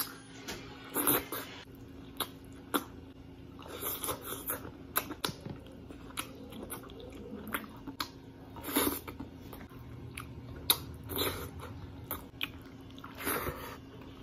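Close-up sounds of a person eating rice and fried tilapia by hand: chewing, with many short clicks and smacks at irregular intervals.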